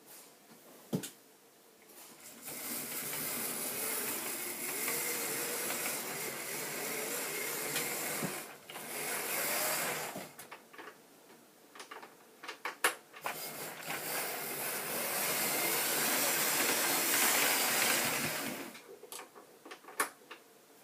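Model James the Red Engine locomotive pulling two coaches, its small electric motor and wheels whirring along the track in two long passes, with scattered sharp clicks in between.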